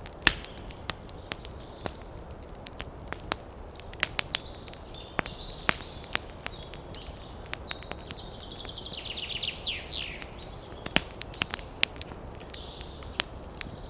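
Wood campfire crackling, with sharp pops at irregular intervals over a steady low hiss. Birds call high above it, one giving a quick run of falling notes about two-thirds of the way in.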